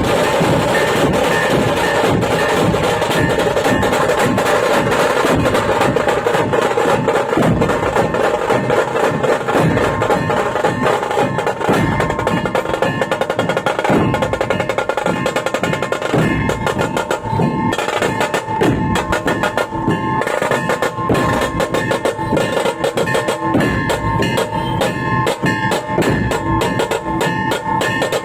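Drums played fast and continuously in rolls and beats, with steady held tones sounding underneath; the strikes become a little more spaced out past the middle.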